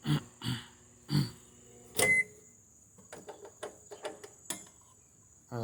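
Microwave oven humming steadily, with three short loud sounds over the hum. About two seconds in, a sharp click and a brief high beep, and the hum stops. Then a run of light clicks and knocks.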